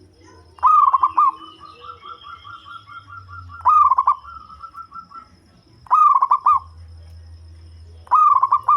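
Zebra dove cooing: four loud phrases of quick staccato notes, about one every two seconds, with a fainter fast run of repeated notes between the first two.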